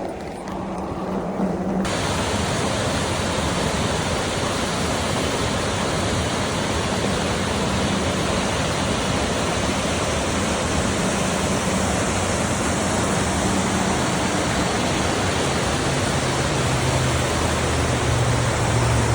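Rushing water of a mountain stream, a loud, steady roar. About two seconds in it abruptly turns fuller and brighter.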